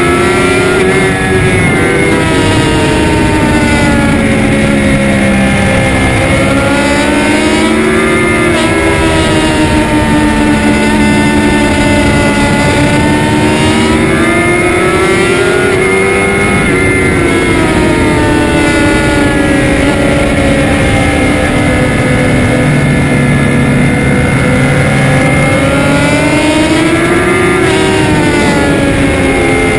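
Sportbike engine heard on board at racetrack speed, its pitch climbing under acceleration and dropping on gear changes and braking for corners, again and again, over a steady rush of wind noise.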